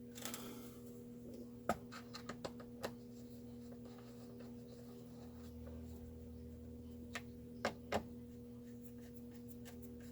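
Sharp clicks and knocks of hand tools and metal chainsaw parts being handled on a workbench, a few scattered strokes with a double knock near the end, over a steady low hum.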